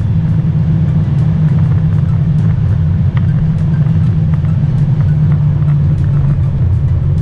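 Mazda 3 sedan's 2.0-litre four-cylinder engine running steadily at high road speed, a constant drone over road and wind noise. Near the end the engine note drops lower.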